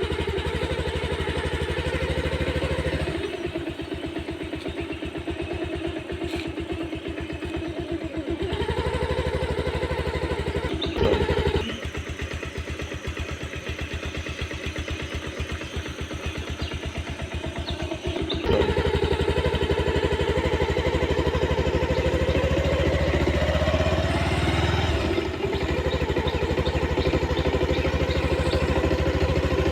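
A motor engine running steadily with a low pulsing hum, its sound dropping and picking up again several times.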